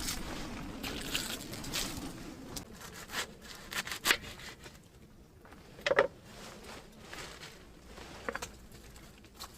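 Handling noise: scattered scrapes, light clicks and knocks, with two sharper knocks about four and six seconds in.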